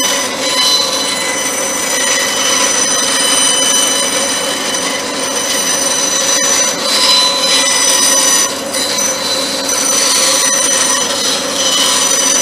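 A workshop power tool running steadily, giving a high-pitched whine of several fixed tones over a rough mechanical noise.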